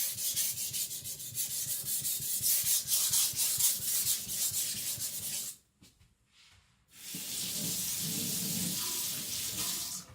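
Steel blade of a Victorinox Chinese cleaver rubbing on a wet whetstone in quick back-and-forth strokes, as the edge is blended into the face of the blade. The strokes stop for about a second and a half partway through, then a steadier scraping runs for about three seconds and stops.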